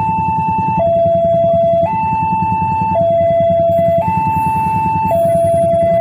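Railway level-crossing warning alarm sounding a two-tone hi-lo signal, switching between a higher and a lower tone about once a second. A steady low rumble runs beneath it.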